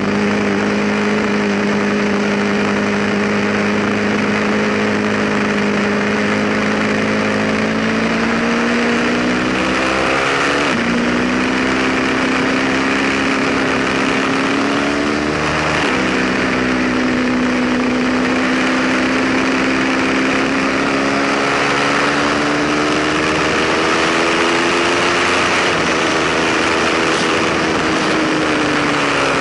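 Ducati sportbike's twin-cylinder engine accelerating, its pitch climbing slowly through the gears with two quick upshifts about ten and sixteen seconds in, over steady wind rush on the helmet or bike camera.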